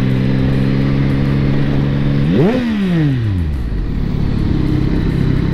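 Yamaha XSR 900's three-cylinder engine and exhaust running steadily, then a sharp throttle blip about two seconds in, its pitch shooting up and falling away over about a second before settling back to a lower, steady running note.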